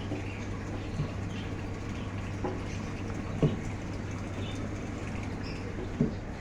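Pet-store ambience: caged birds chirping faintly over a steady low hum, with four short knocks, the loudest about halfway through.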